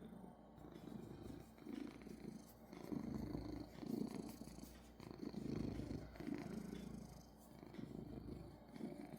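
A domestic cat purring steadily, the rumble swelling and easing about once a second with each breath in and out.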